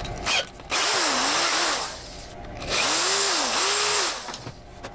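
Small hand-held power tool run in two bursts of about a second and a half each, its motor pitch dipping and recovering as it is pressed against steel.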